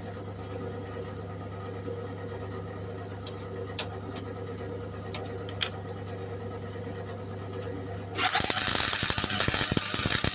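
A steady electrical hum from the MIG welder, with a couple of faint clicks. About eight seconds in, the arc strikes and runs with a steady, loud crackle as a bead is laid. The welder is on its modified medium-power setting, and the bead comes out a decent weld.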